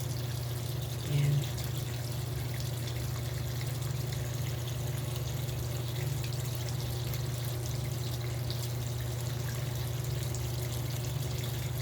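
Water running into the tub of a Hanabishi fully automatic top-load washing machine as it fills, with a steady low hum from the machine. There is one brief louder swell about a second in.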